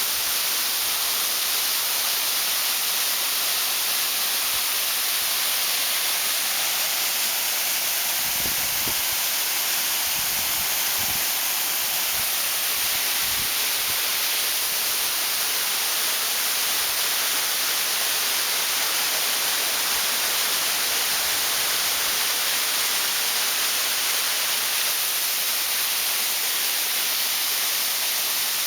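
Waterfall swollen with snowmelt run-off: a steady, unbroken rush of falling water, heavy in hiss.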